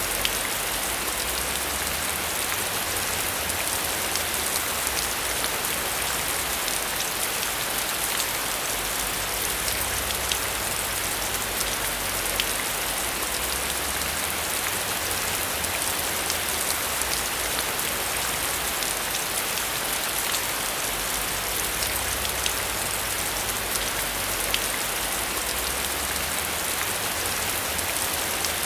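Steady heavy rain: an even hiss of rainfall with many individual drops ticking close by.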